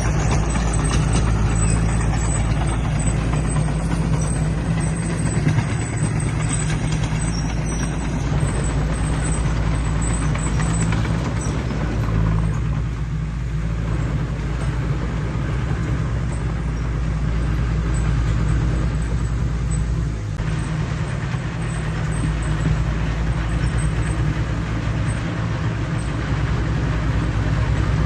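Heavy earthmoving machine's diesel engine running steadily at an even pitch.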